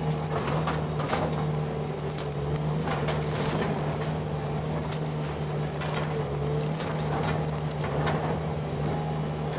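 Tractor engine running steadily under load, with scattered snaps and knocks from brush being pushed onto the pile.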